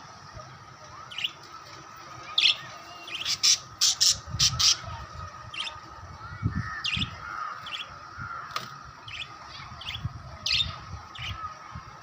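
Small pet parrots (lovebirds) giving short, sharp chirps and squawks. A quick run of the loudest calls comes about two to five seconds in, with scattered single calls after. A faint steady tone sits underneath.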